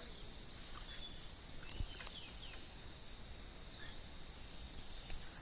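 Insects droning in a continuous, steady high-pitched buzz at one unchanging pitch.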